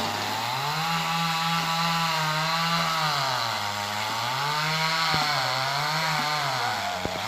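Chainsaw running at high speed while cutting tree wood; its pitch sags twice as the chain bites into the wood, then picks back up.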